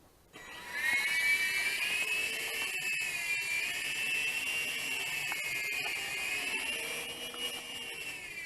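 Mini coaxial RC helicopter's small electric motors and counter-rotating rotors spinning up about half a second in, then running as a steady high whine that wavers slightly in pitch.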